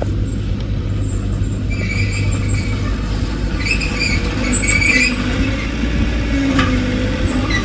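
Crawler bulldozer's engine running steadily, with high squeals from its steel tracks about two seconds in and again between about four and five seconds in.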